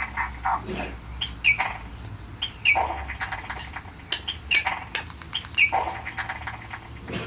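Baby parrot chick calling in a quick series of short chirps and harsher rasping calls, the begging calls of a chick waiting to be hand-fed. A faint steady low hum runs underneath.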